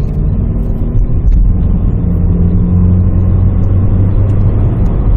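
Engine and road noise of a 2008 Renault Samsung SM5 heard from inside the cabin while driving under throttle: a steady low drone.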